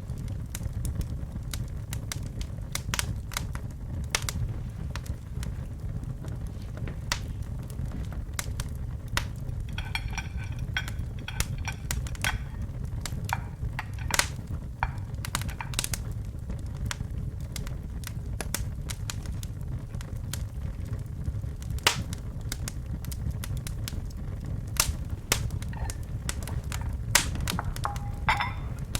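Wood fire burning in a fireplace, crackling with many irregular sharp pops over a low, steady rumble of flames, and a brief high whistling twice.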